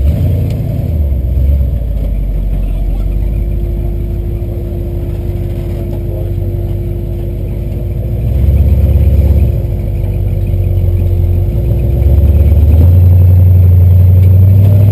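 Jeep CJ7's V8 engine working under load on the trail, running at low revs with a burst of throttle about eight seconds in and a longer, louder rev-up from about twelve seconds that holds to the end.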